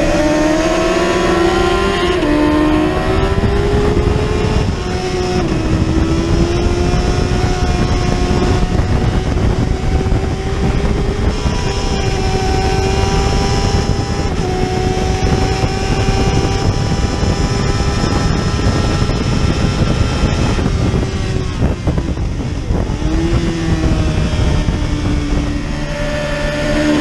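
Lightweight-class racing motorcycle engine at full race pace. The revs climb and drop back at each gear change, with a noticeable drop about two seconds in. The engine tone fades briefly about three-quarters of the way through, then picks up again. A heavy, steady rushing noise runs underneath the engine.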